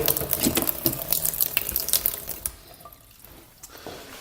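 Water running from a tap into the espresso machine's water tank, splashing. It stops about two and a half seconds in.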